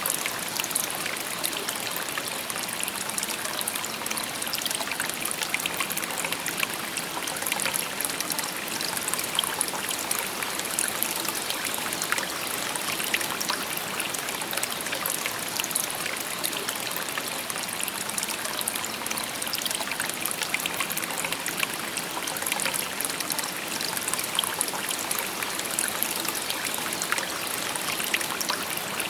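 A shallow river babbling and trickling over stones: a steady, even rush of water with fine splashing and burbling.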